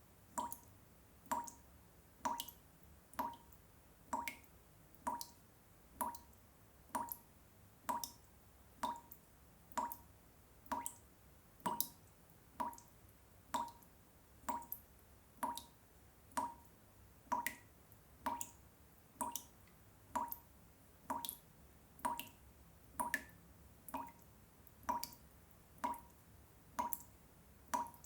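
Water drops falling one at a time into water, an evenly repeating drip about once a second, each drop a short ringing plop.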